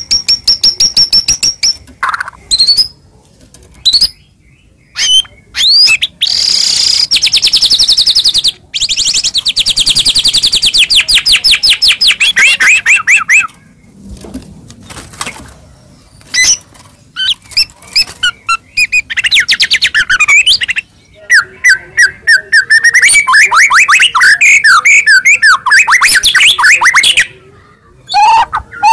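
White-rumped shama (murai batu) singing loud and non-stop: rapid strings of sharp, high repeated notes and long fast trills that slide downward in pitch, broken by short pauses.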